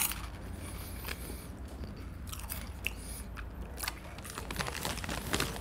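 A person chewing a cheese puff (chizito): irregular small crisp crunches and mouth sounds.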